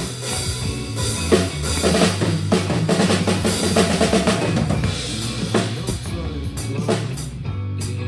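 Drum kit played along with the recorded rock song: kick drum, snare and cymbals driving over guitar and bass, with no singing.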